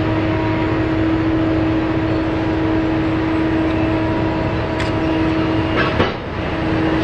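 BelAZ 75710 mining dump truck running: a steady heavy machine hum with a sustained tone over it. A sharp knock comes about six seconds in, and the tone drops out for a moment after it.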